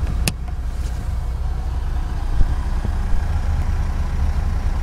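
2012 Mitsubishi Montero Sport's engine idling, a steady low rumble heard inside the cabin. About a third of a second in there is one sharp click from the rear power outlet's cap.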